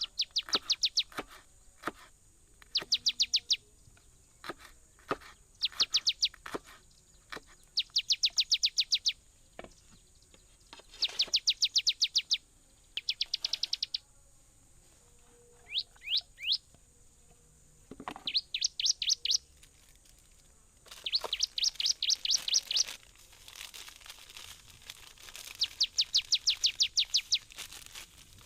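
A bird calling in rapid trilled bursts of high chirps, each burst about a second long and repeated every few seconds. Scattered sharp knocks sound between the bursts, and a faint steady high hum runs under them.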